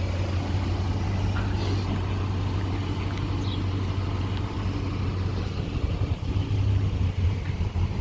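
A 2012 Nissan Titan's 5.6-litre V8 idling steadily through its cat-back exhaust, a low even rumble.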